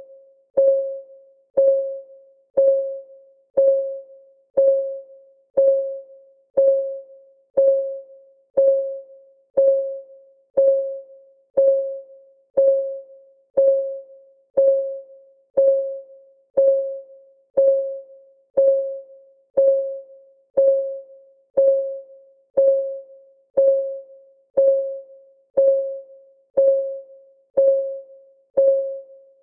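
Countdown timer's clock-ticking sound effect: a short, clear tick once every second, each dying away quickly, all at the same pitch.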